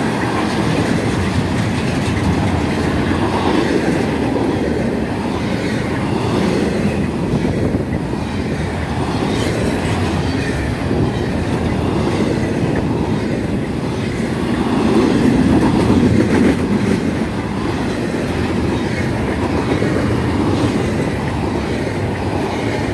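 Double-stack intermodal train's loaded well cars rolling past close by: a steady rumble of steel wheels on rail, swelling in loudness about two-thirds of the way through.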